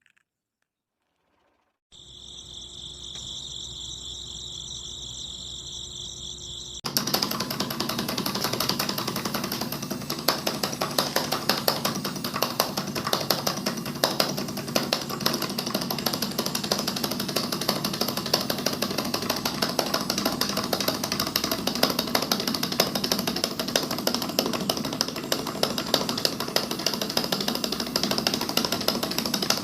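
Small electric motor of a homemade mini flour mill, starting about two seconds in with a steady high whine, then about five seconds later a loud, dense rattling grind of the mill working that carries on steadily.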